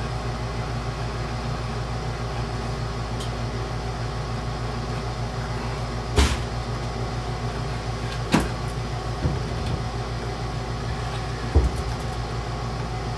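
A steady low machine hum, with a few sharp wooden knocks as chair parts and tools are handled on the bench: three clear knocks and a softer one in the second half.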